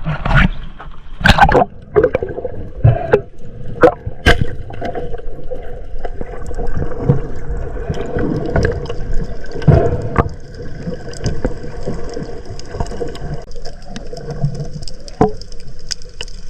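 Water gurgling and sloshing against a camera in the sea, with several sharp knocks in the first few seconds, then a steadier wash of water with a faint hum running under it.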